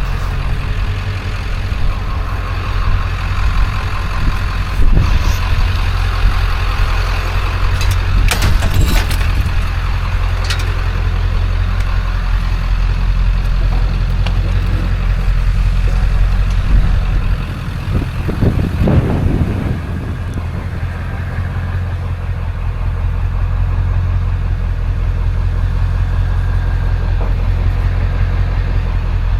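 Vehicle engine running with a steady low drone, likely a pickup truck under way, with a few brief clicks and knocks around five and nine seconds in.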